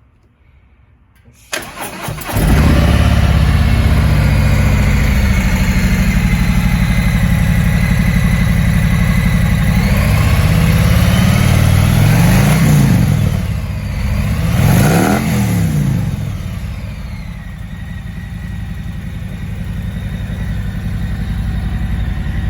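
Harley-Davidson Milwaukee-8 114 V-twin of a 2019 Tri Glide Ultra trike, with Stage I tune and Screamin' Eagle Street Cannon slip-on mufflers, cranked on the starter about a second and a half in and catching at once. It runs at a loud fast idle, is revved up and back down twice in the middle, then settles to a lower, steady idle.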